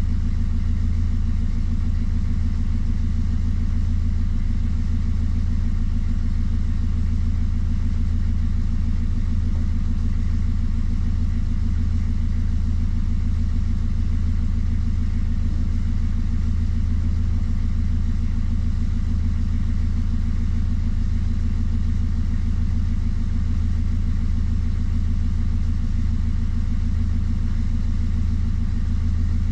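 Hire motor cruiser's inboard engine running steadily while under way, a constant low hum with no change in pace.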